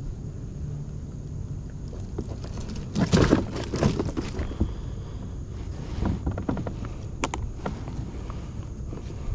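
Knocks, scrapes and rustling on a kayak while a hooked bowfin is being landed, with a louder spell of noisy clatter about three seconds in and a few sharp knocks later, over a low steady rumble.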